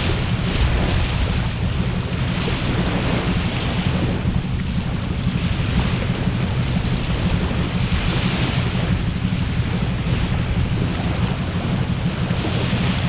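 Wood fire burning in a Coleman Fire Disk fire pit: a steady rushing roar of flames with a heavy low rumble, wind buffeting the microphone, and a few faint crackles. A steady high-pitched tone sits above it.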